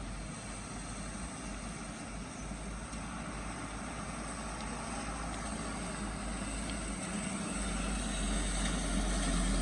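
A motor vehicle's engine running with a low rumble, growing gradually louder toward the end as it comes closer.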